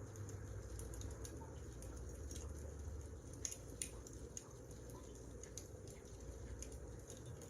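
Burning firewood crackling: irregular small pops and snaps over a low steady rumble.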